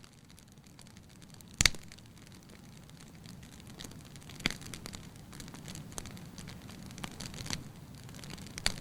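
Bonfire crackling: a low rush that slowly builds, with sharp pops every few seconds. The loudest pop comes about one and a half seconds in.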